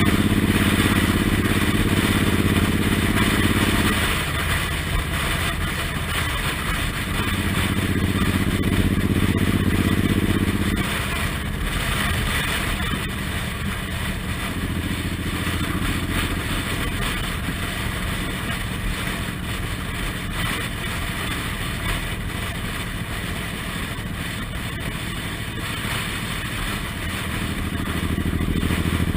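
Suzuki Intruder M1800R's V-twin engine running on the road, heard from the bike. It pulls loudly, eases off about four seconds in, picks up again briefly, runs quieter and steady for a long stretch, then rises again near the end.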